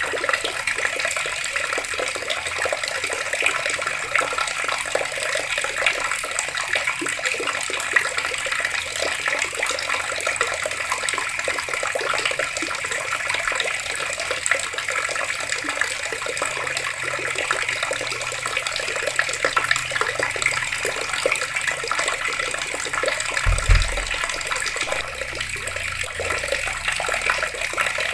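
Water taps running in a steady, even splashing stream. A single brief low thump comes late on.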